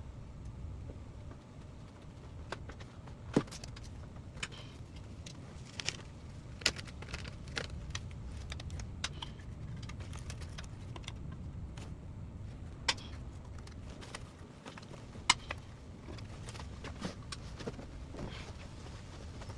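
Scattered sharp clicks and clinks of hand tools and small metal parts being handled under a car's hood, about a dozen over the stretch, with a few louder knocks. A steady low rumble runs underneath.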